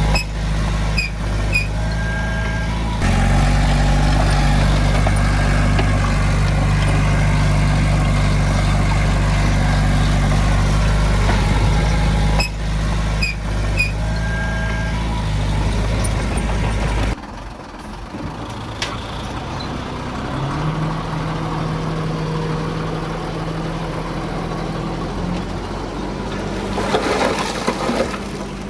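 Heavy diesel equipment engine running steadily, with a few short high squeals or beeps. About two-thirds through the sound changes abruptly to a quieter, different engine note.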